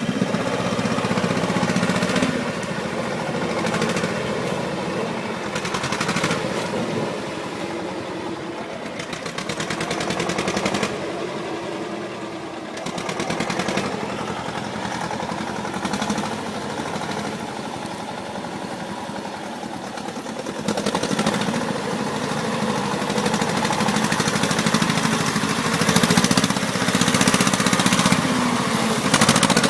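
Heavy vehicle's engine running hard with a rapid, rattling pulse. It eases off briefly near the middle, then builds louder again in the last third.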